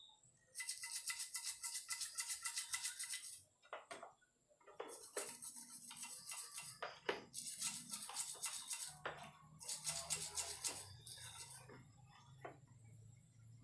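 Stiff brush scrubbing crust off a Yamaha RX-King engine crankcase, in four bursts of quick back-and-forth strokes with short pauses between them.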